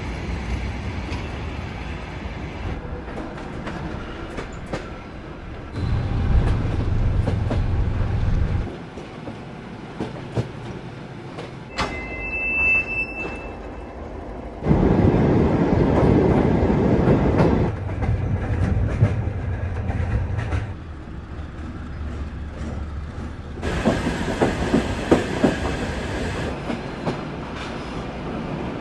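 Soviet-built passenger sleeper train in short cut-together clips: rumbling and clattering of wheels over the rails, the sound changing abruptly every few seconds. A brief high tone sounds about 13 seconds in.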